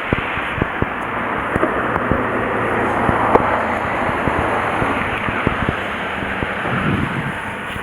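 A car running, heard as a steady rushing noise with a low hum underneath and scattered clicks and knocks, mixed with wind on the microphone.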